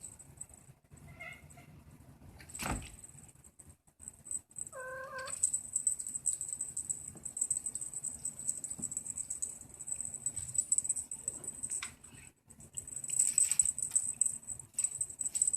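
Maine Coon kitten giving a short, high-pitched meow about five seconds in, with a fainter mew just after one second. Light scratching and rustling throughout, and a single knock near three seconds.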